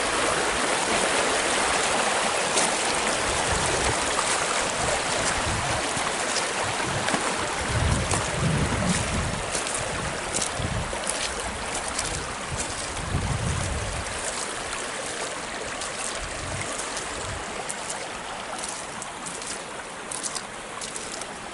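Runoff water rushing over a rock-lined pond spillway after heavy rain: a steady rush that slowly grows fainter. Two low rumbles come in around the middle.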